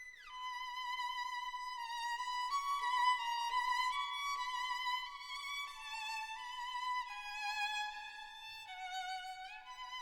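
Background music: a solo violin playing a slow melody with vibrato, sliding down into its first note and sliding up near the end.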